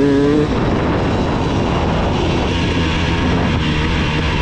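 KTM 300 two-stroke dirt bike engine revving up under throttle, then cut off about half a second in. After that comes a rough, steady rumble of the bike rolling along with little throttle.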